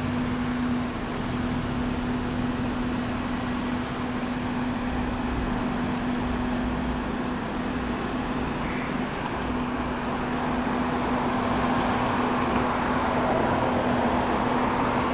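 Steady street noise with a constant low hum, a little louder near the end.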